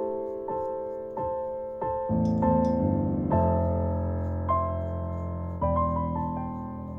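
Background piano music: a gentle melody of single struck notes, joined by lower held notes about two seconds in.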